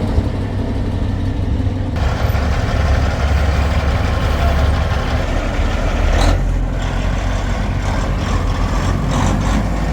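Heavy diesel truck engine running steadily with a deep low rumble. A brief hiss comes about six seconds in.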